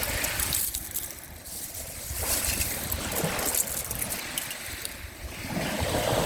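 Sea waves washing onto the shore, surging and fading every two to three seconds, with wind rumbling on the microphone.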